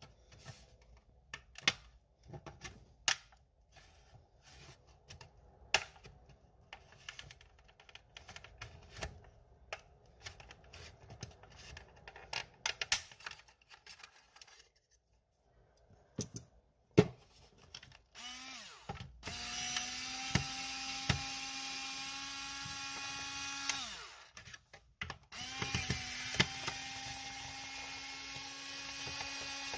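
Light clicks and knocks of hard parts being handled, then a small electric motor running at a steady pitch twice, each time for about five seconds, with a short stop in between.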